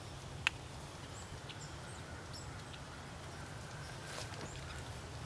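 Quiet rural outdoor background: a steady low rumble, faint high bird chirps, and a single sharp click about half a second in.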